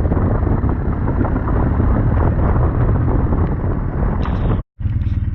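Wind rushing over the microphone on a moving motorcycle, with the low rumble of a BMW R1200GS boxer twin running underneath. Near the end the sound cuts out briefly and comes back with less wind and a steadier engine note.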